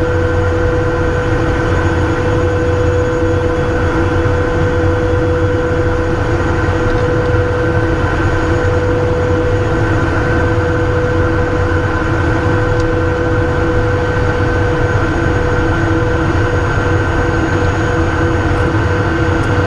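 Steady cockpit noise of a Cessna Citation I business jet with its Pratt & Whitney JT15D turbofans running: a constant rumble with several steady whining tones held throughout.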